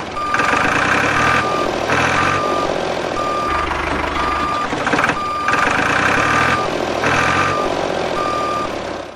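Mini loader's reversing alarm beeping steadily about once a second, with several stretches of motor whirring as the machine moves.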